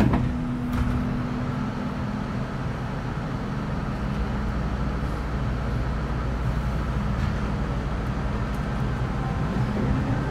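Metro Cammell M-Train electric multiple unit with GEC GTO chopper traction, heard inside the car: a steady low rumble, with a tone that fades out about two seconds in. Near the end a rising whine from the chopper traction equipment begins as the train starts to pull away.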